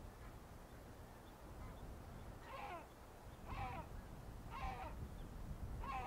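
A bird calling four times from about halfway through, the calls about a second apart, each a short note that falls in pitch.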